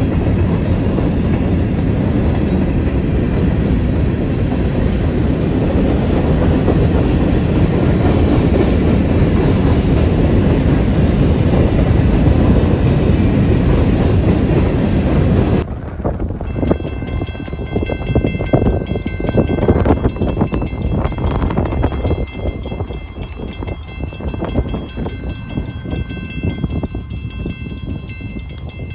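Railroad cars rolling past close by, a loud steady rumble. About fifteen seconds in, the sound cuts abruptly to a quieter passage of rail cars with irregular clattering wheel knocks and faint steady high tones.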